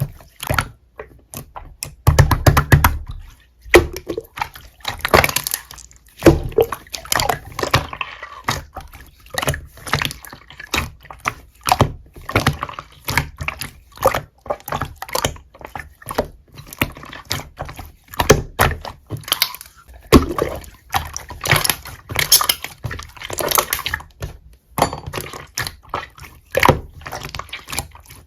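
Slime being squished and pressed by hand: a dense, irregular run of wet clicks and pops.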